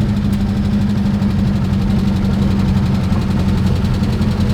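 1960 Peugeot 403's four-cylinder engine running steadily under way in second gear, heard from inside the car, with an even low hum and no misses, just after a tune-up with a rebuilt carburettor.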